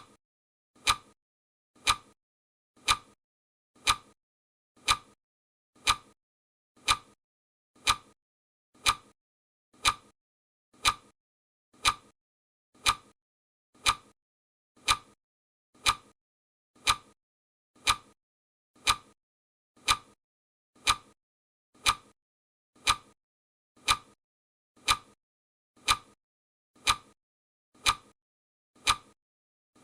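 Clock ticking sound effect: sharp, even ticks at about one a second, counting down a timer.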